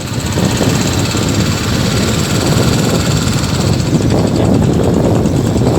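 Royal Enfield motorcycle running steadily on the road, with wind buffeting the microphone.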